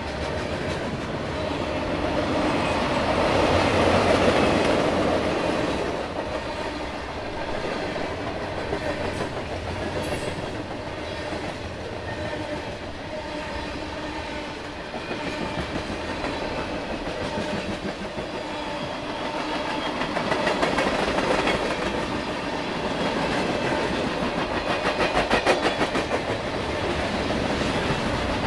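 Freight train cars rolling past: a steady rumble of wheels on rail, with faint steady squeals and a fast, even clickety-clack of wheels over rail joints in the last few seconds.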